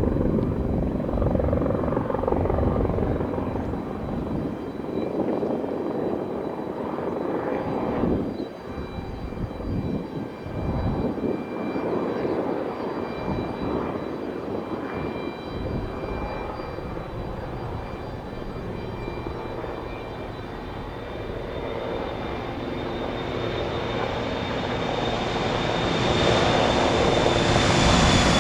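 Jet engines of an Embraer E175 regional jet running, with a rumble and a faint high whine. The sound grows steadily louder over the last several seconds, and near the end the whine starts to drop in pitch.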